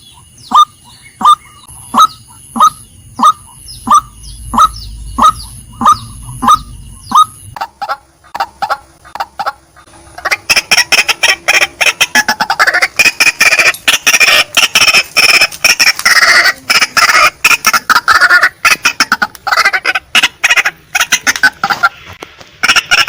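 Female white-breasted waterhen calling: short, evenly spaced falling calls at about one and a half a second for the first seven seconds, then, after a brief lull, a loud, rapid, crowded chattering run of calls from about ten seconds in until near the end.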